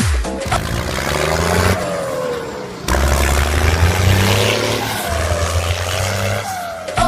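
Tractor engine running and revving under load, its pitch rising and falling, broken by several abrupt cuts.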